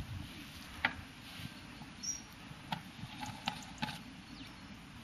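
Quiet outdoor background with a few faint, sharp clicks and ticks and two or three very short, high chirps.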